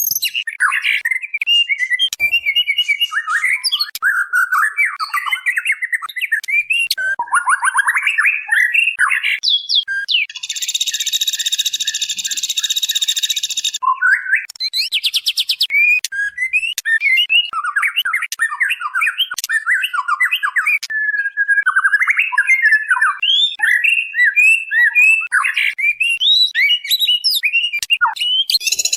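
Female white-rumped shama calling in a fast, varied string of chirps and whistles. A long harsh buzzing call runs for about four seconds near the middle, and short rasping rattles follow it and come again at the end.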